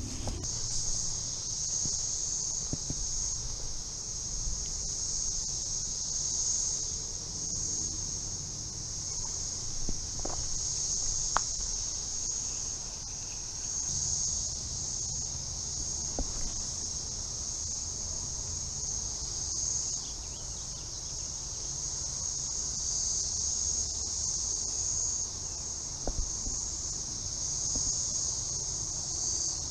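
A chorus of cicadas buzzing in one steady, high drone that swells and eases slightly, with a few faint clicks here and there.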